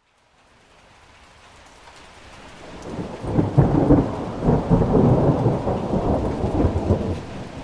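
Thunder rolling over steady rain. It fades in from silence, builds over the first few seconds, and rumbles and crackles loudest from about three to seven seconds in before easing back.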